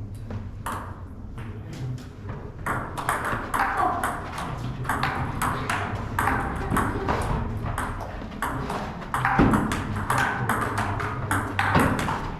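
Table tennis balls clicking off bats and the table: many quick, irregular, overlapping taps, as in ongoing rallies.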